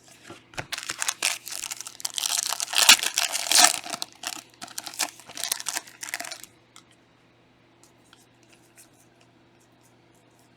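Plastic trading-card pack wrapper being torn open and crinkled, loud and busy for about six seconds and then stopping, leaving only a few faint clicks.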